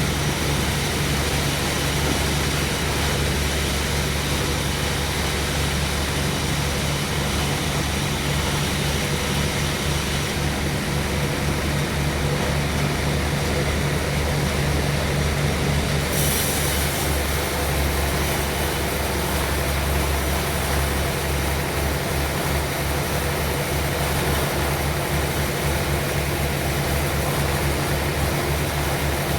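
Sawmill machinery running steadily, with a low engine drone that does not let up; the hiss in the high end changes about halfway through.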